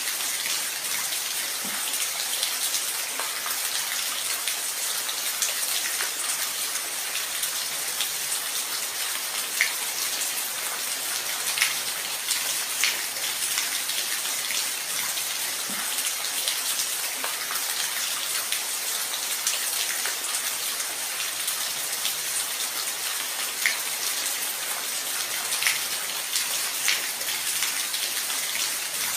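Steady rain falling: an even hiss with individual drops ticking sharply here and there.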